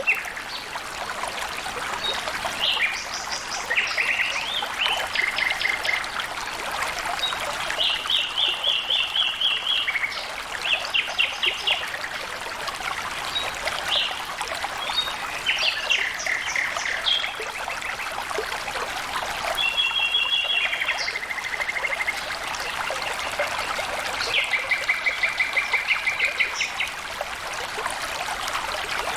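Flowing water trickling steadily, with birds calling over it in short runs of rapid repeated notes throughout.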